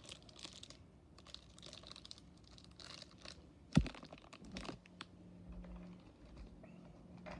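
Plastic toy packaging and small die-cast cars being handled: crinkling plastic and a scatter of light clicks and taps, with one sharper knock a little under four seconds in.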